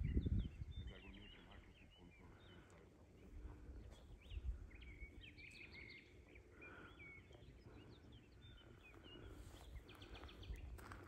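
Small birds chirping and twittering, many short calls, busiest in the middle, with a brief low rumble at the very start.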